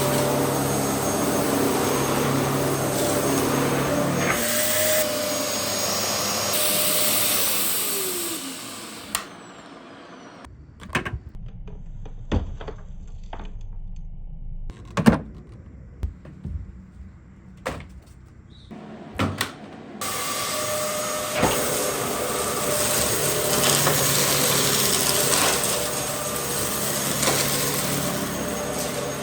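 Dyson DC07 Allergy upright vacuum cleaner's motor running steadily, then winding down with a falling whine about eight seconds in. About ten seconds of clicks and knocks follow. The motor noise then comes back suddenly and runs steadily again.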